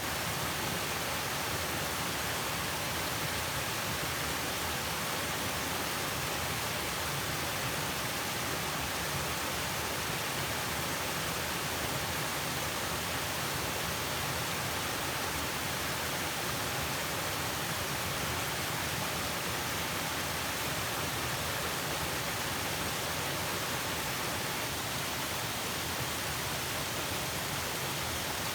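A waterfall rushing in a steady, unbroken roar of falling water.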